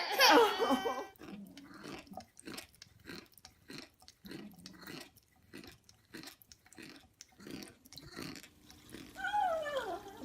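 Crunchy food being chewed in a run of quick, irregular crunches, about two or three a second. Near the end comes a short, rising-and-falling call.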